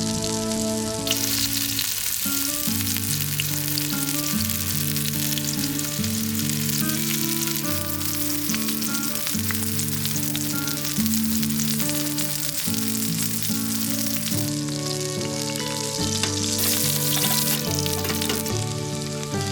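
Food sizzling as it fries in a hot pan, with a continuous crackle, under background music.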